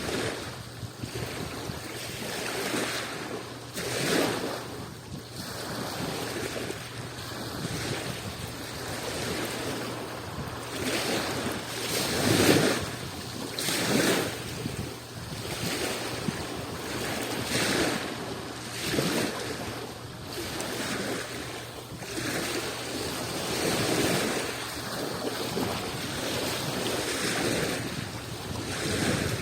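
Sea waves washing in, in repeated surges of surf every second or two, the loudest about twelve seconds in.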